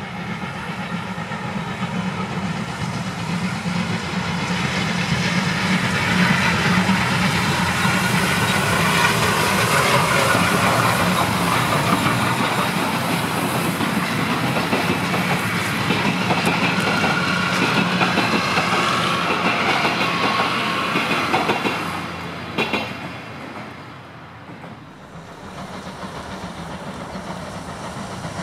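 Passenger coaches of a steam-hauled train rolling past, wheels clicking over the rail joints, growing louder to a peak midway. The sound cuts off abruptly about 22 seconds in. A quieter, more distant train sound then builds again near the end.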